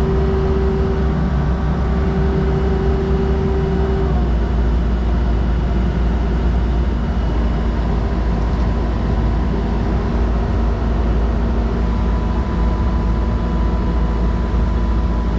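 Truck engine running steadily, with a steady whine over it that stops about four seconds in.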